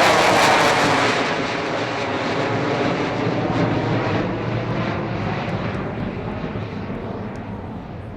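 Avro Vulcan XH558's four Rolls-Royce Olympus turbojets roaring past at full power. The sound is loudest at first, loses its hiss after about a second, and then fades steadily as the bomber flies away.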